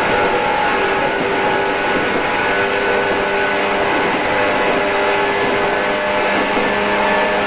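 A JR East 113 series electric train, heard from inside while running at steady speed. The traction motors give a steady whine of several held tones over the rumble of wheels on rail.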